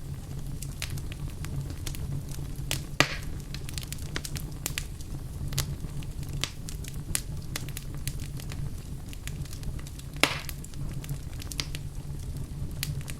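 Wood fire burning in a fireplace, crackling with many small pops and two louder snaps about three seconds and ten seconds in, over a steady low rumble.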